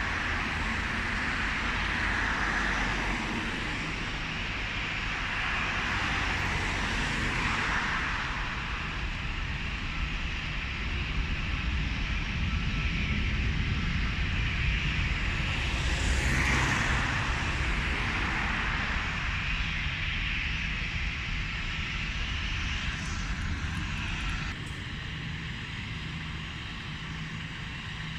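Aircraft engines running, a steady low rumble under a hissing roar that swells twice and drops off abruptly near the end.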